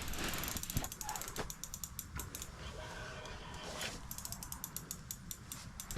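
Fishing reel clicking in quick runs of ticks, densest in the first couple of seconds and more spaced out later, with a big lake sturgeon hooked and pulling on the line.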